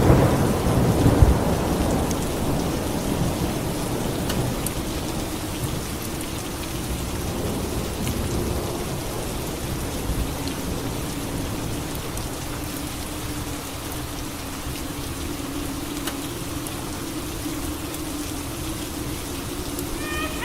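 Steady rain with a thunder rumble at the start, peaking in a sharp crack about a second in, then fading away and leaving the rain alone.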